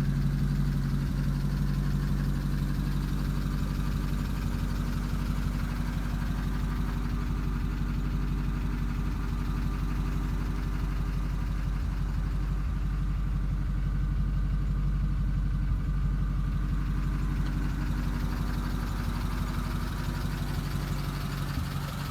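1952 Pontiac Chieftain's 268ci L-head inline-eight idling steadily.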